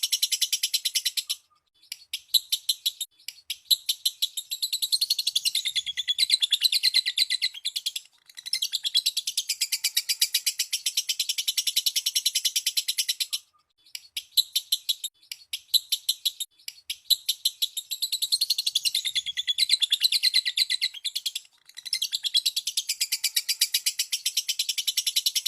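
Lovebird chattering in long runs of rapid, high chirps, the 'ngekek' trill, each run lasting several seconds and broken by short pauses. The whole sequence repeats about halfway through, like a looped recording.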